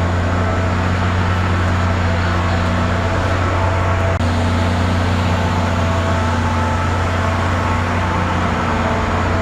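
Steady low machinery drone heard from inside a SunRail commuter train car, with a few steady tones above the hum. The sound briefly drops out about four seconds in.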